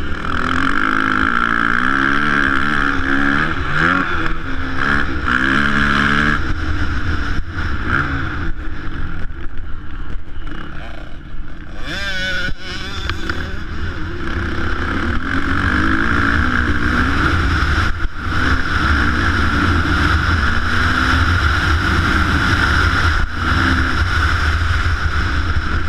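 Motocross motorcycle engines revving up and down repeatedly, over a constant low rumble. A sharper rise in revs comes about halfway through.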